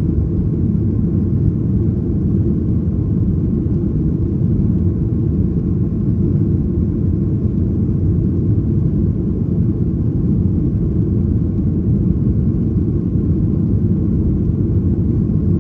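Cabin noise inside a Boeing 737-800 in flight: the steady low rumble of its CFM56 jet engines and the airflow, unchanging throughout.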